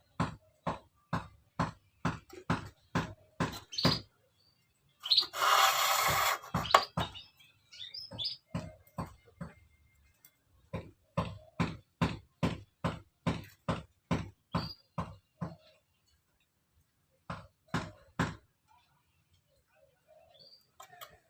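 Hand-made bird-cage spokes being worked with short, sharp scraping strokes, about two a second, in runs with pauses, and one longer scrape a few seconds in.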